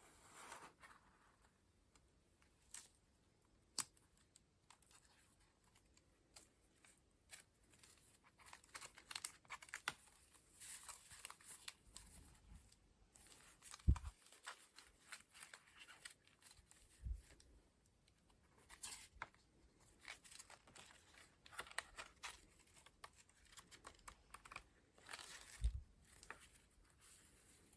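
Collage pages being turned by hand: dry paper rustling and crinkling with each page, and a few soft low thumps as pages settle.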